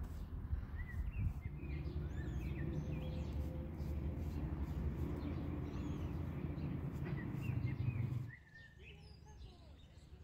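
Birds chirping over a loud, steady low hum that cuts off suddenly about eight seconds in, after which only the birds remain.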